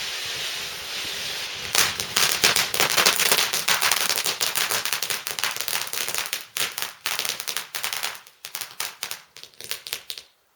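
A steady hiss, then a firework crackling: a dense, fast run of sharp pops that starts about two seconds in, thins to scattered pops and stops near the end.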